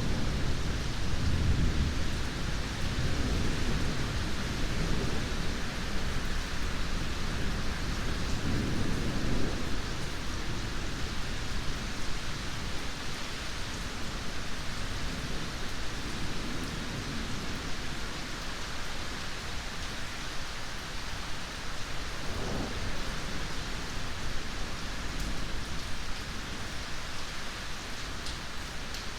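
Steady heavy rain hissing, with rolling thunder rumbling low and loud in the first few seconds and dying away; a brief softer rumble comes later.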